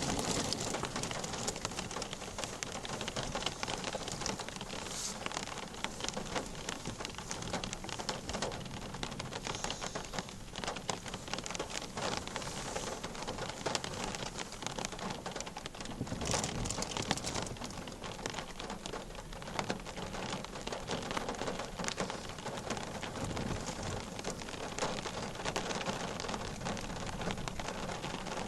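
Heavy rain falling steadily, a dense patter of drops striking surfaces, with a brief louder swell about halfway through.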